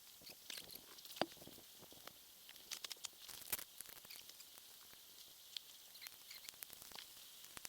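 Faint, irregular light ticks and patters over a steady high hiss.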